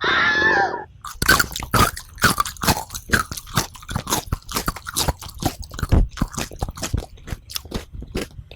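Close-miked chewing: a rapid run of crisp crunches and bites, about three or four a second. A brief pitched sound comes just before the crunching starts.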